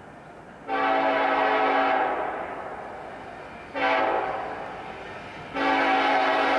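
Locomotive air horn blowing a multi-note chord: a long blast, a short blast a couple of seconds later, then another long blast that starts near the end and is held.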